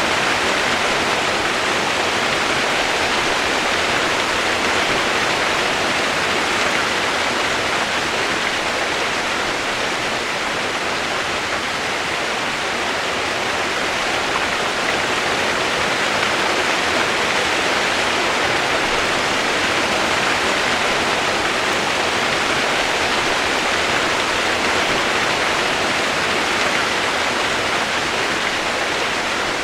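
Steady rushing water, a continuous even hiss with no separate splashes or other events.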